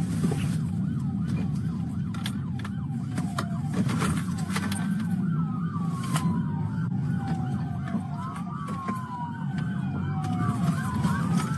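Several police car sirens wailing at once, their rising and falling tones overlapping, over the steady rumble of the pursuing vehicles.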